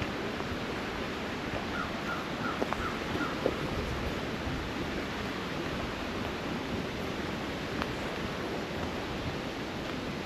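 Steady rushing of creek water, with five short high chirps in quick succession about two seconds in and a few faint knocks.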